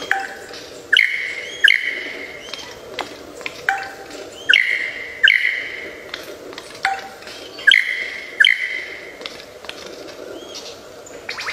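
A songbird calling loudly in repeated pairs of sharp, clear calls, each pair a few seconds apart; the calls are billed as the bird's imitation of a kuntilanak ghost's laugh.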